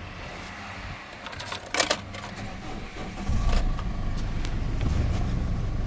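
A few sharp clicks, then about halfway through the Holden Colorado's LWN four-cylinder turbo-diesel engine comes up to a louder, steady run.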